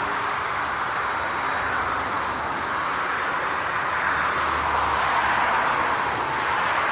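Jet airliner engines running, a steady rushing noise that swells a little about four seconds in.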